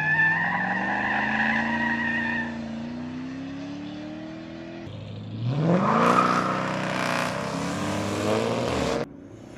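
A car doing a burnout: its engine revs up with rising pitch while the tyres spin and squeal. A second, louder rev comes about five seconds in, with heavy tyre noise, and the sound cuts off suddenly near the end.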